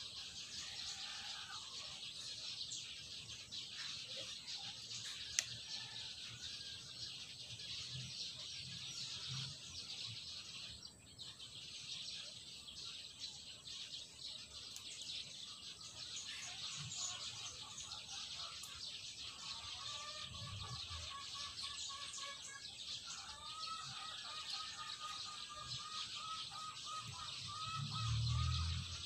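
Birds calling over a steady high outdoor hiss, the calls clearer in the second half, with a few soft low bumps, the loudest near the end.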